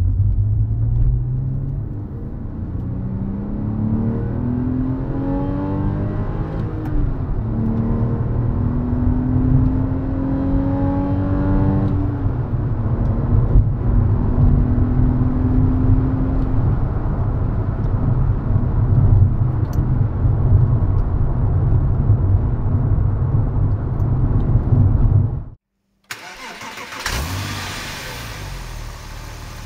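Porsche 911 (997) Carrera 4's flat-six engine heard from inside the cabin, accelerating through the gears of the manual gearbox, its pitch climbing and dropping back at each shift, then holding steady at cruise. Near the end the sound breaks off and the engine is heard at the open engine bay, loud at first and then settling lower.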